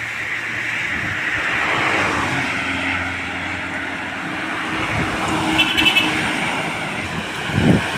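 Road traffic: a large vehicle's engine running as it passes, with tyre and road noise that swells and fades. A brief high warbling tone comes about six seconds in, and a low rumble swells near the end.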